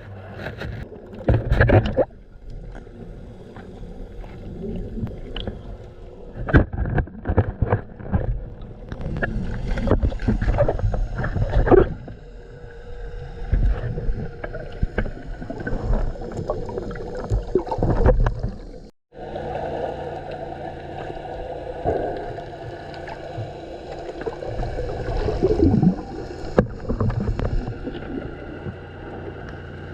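Motorboat at sea: water slapping and sloshing against the hull with irregular knocks, then, after a sudden break, a boat motor running steadily under the wash of the water.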